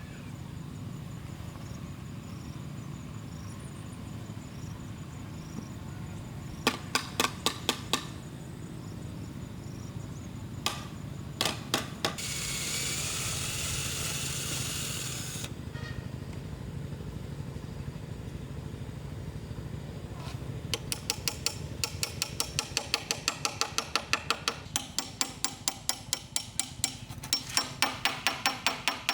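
Hand tool striking bamboo: two short runs of sharp knocks, a few seconds of steady hissing noise midway, then a long run of quick strikes, about three a second, through the last third.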